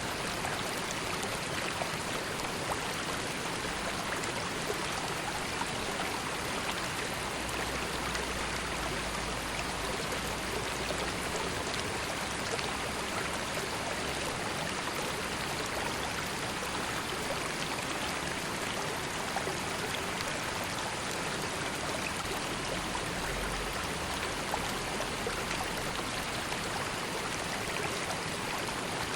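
River water flowing steadily over stones, an even rushing and babbling with no breaks.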